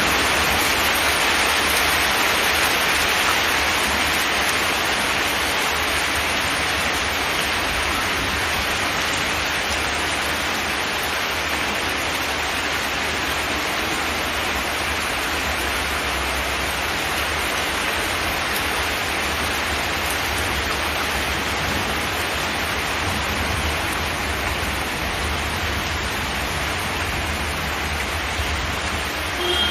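Steady rain on a zinc metal roof: a dense, even hiss of drops with no separate strikes standing out.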